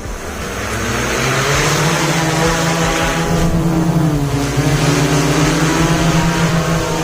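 Agricultural spraying drone's propellers running with a steady, loud buzzing hum and a strong airy hiss. The pitch dips slightly about halfway through.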